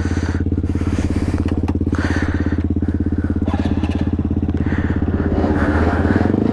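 Small motorbike engine idling with a fast, even putter, the revs beginning to rise near the end.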